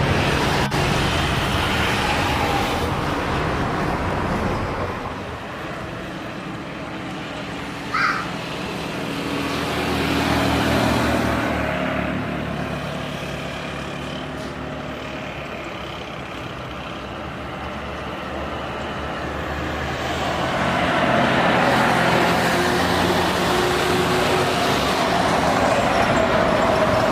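Heavy motor vehicles passing, with engine hum and traffic noise that swell and fade several times. A brief high beep comes about eight seconds in.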